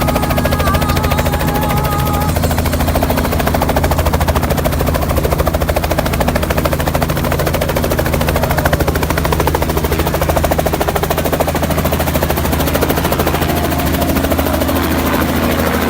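Helicopter running close by, its rotor blades chopping the air in a fast, steady beat over a constant low hum.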